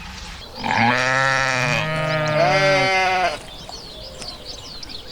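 Sheep bleating: long, wavering bleats, two overlapping at different pitches, from about a second in until past three seconds, followed by faint high chirps.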